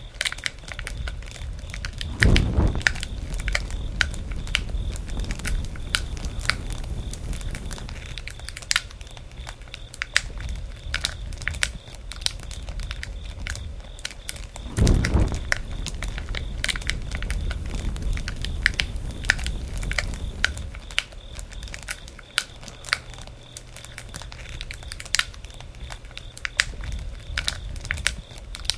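Campfire burning, with irregular crackles and pops over a steady low rumble of the flames. Two louder low rushes come about two seconds in and again about fifteen seconds in.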